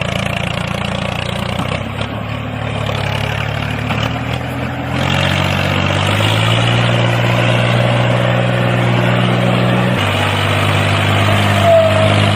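Tractor-like engine running steadily with a low hum, its pitch shifting slightly about five seconds in and again near ten seconds.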